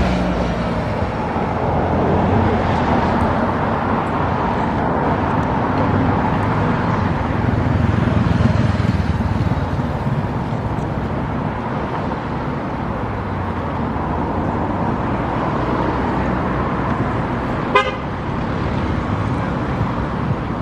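Steady, fairly loud motor traffic noise, with one brief sharp click near the end.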